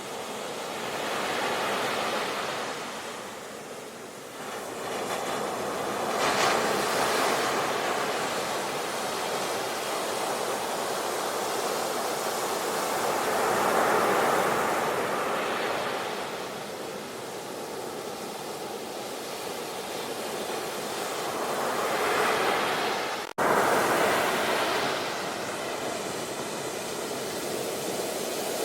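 Ocean waves breaking and washing up on a shore, swelling and fading every several seconds. About 23 seconds in, the sound cuts out for an instant, then comes straight back loud.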